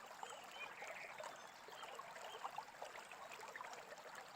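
Faint babbling brook, water trickling steadily, with a few soft bird chirps over it.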